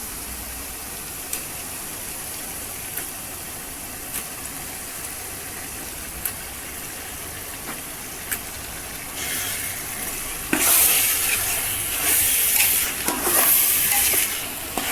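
Chicken pieces sizzling as they fry in an oil-and-onion masala, with a few light taps of a ladle. From about nine seconds in, louder scraping as the ladle stirs the chicken through the pot.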